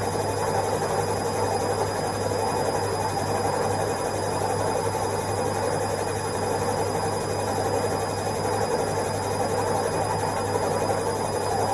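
Washing machine running its spin cycle: a steady, even hum and whir from the spinning drum.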